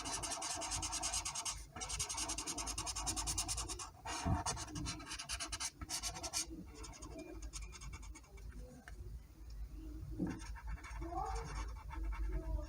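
A colouring tool scratching back and forth on paper in rapid strokes, filling in a drawing; the strokes go dense for about six seconds, with brief pauses, then turn lighter and sparser.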